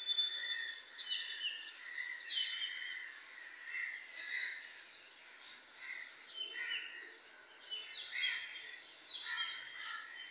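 Birds chirping and calling in many short, repeated notes over a faint steady hiss.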